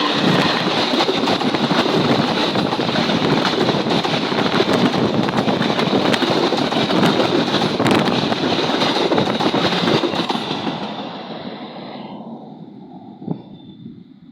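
Local train passing close by at speed: a loud, even rush of wheels and wind on the rails that holds for about ten seconds, then fades away over the last few seconds as the train recedes.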